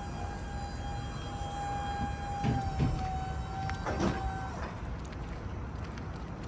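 Low, steady rumble of an idling truck with a steady high-pitched whine over it that cuts off about four and a half seconds in. A few short knocks fall in between.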